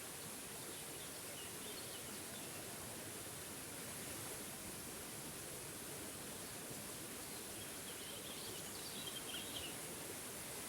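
Waterfall rushing steadily, with a bird chirping faintly over it about a second and a half in and again in a longer run of chirps near the end.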